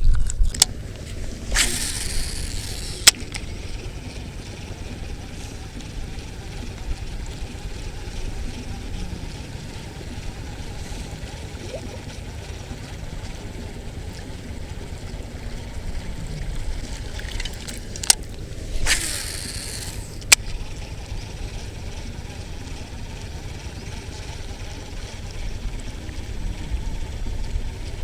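Strong wind buffeting the microphone, a steady low rumble, with a few sharp clicks and two brief rustling hisses from handling, about two seconds in and again near nineteen seconds.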